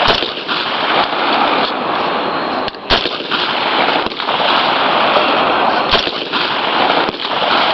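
Single rifle shots on a firing range, a few sharp reports about three seconds apart, over a steady rushing noise.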